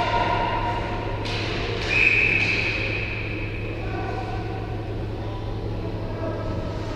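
Ice hockey arena sound: a steady low hum under faint game noise, with a couple of sharp knocks about a second in. About two seconds in comes a brief high whistle blast, most likely the referee's whistle.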